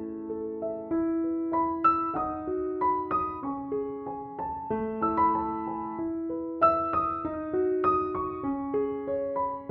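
Background piano music: a slow melody of single notes and chords, each note struck and left to ring.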